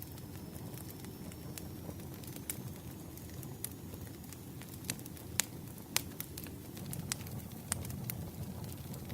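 Campfire crackling: a steady low rumble of burning wood with scattered sharp pops, the loudest two coming just past the middle.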